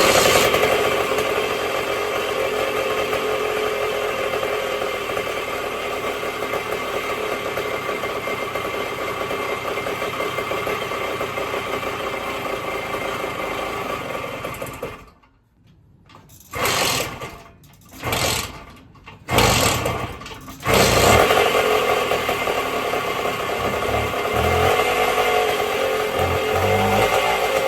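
Minarelli P4-70 two-stroke engine of a 1974 Indian SE74 dirt bike running while its idle is being turned down. About halfway through it dies, catches briefly three times, then starts again and keeps running.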